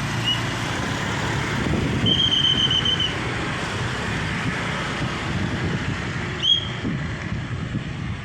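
Road traffic running steadily, with a few short high-pitched beeping tones, the longest held about a second starting about two seconds in.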